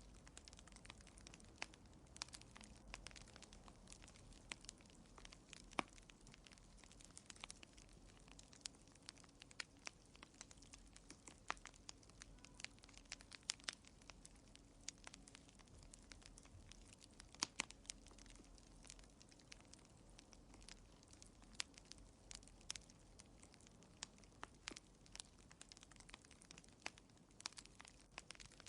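Wood fire crackling in a fireplace, faint: frequent irregular small pops and snaps, a few of them louder, over a soft steady background.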